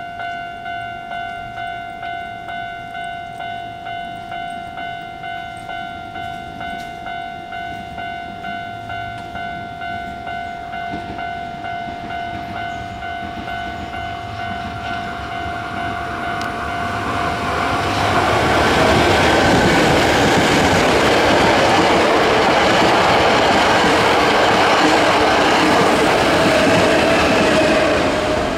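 A railway crossing warning bell ringing in even pulses, about one and a half a second. Just past halfway a Hankyu 7000 series electric train comes by close at speed, a loud steady rush of wheels on rail that drowns the bell and eases off near the end.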